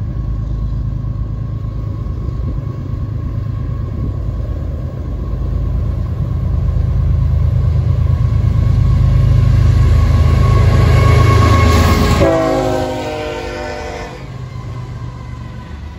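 Florida East Coast freight diesel locomotives (GE ES44C4s) approaching and passing at track speed. A low engine and rail rumble builds to its loudest as the lead unit goes by about twelve seconds in. At that moment its air horn sounds, its pitch sliding down as it passes. The lower rumble of the intermodal cars rolling by follows.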